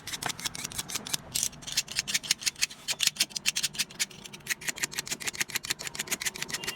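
Rapid, even mechanical clicking, about seven clicks a second, as from a ratchet mechanism.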